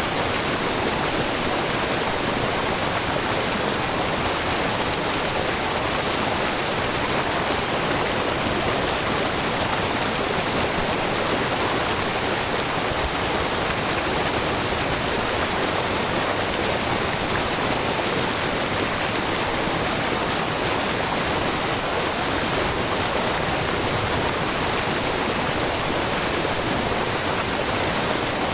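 Waterfall and brook water rushing and splashing in a steady, even wash with no breaks: the low, wide Shiraito Falls, where many threads of spring water spill over a rock face.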